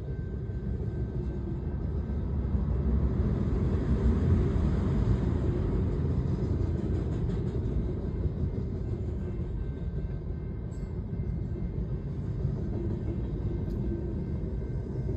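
A train's cars rolling past at a grade crossing: a steady low rumble of wheels on the rails that swells a few seconds in and then eases a little, heard muffled from inside a car waiting at the crossing.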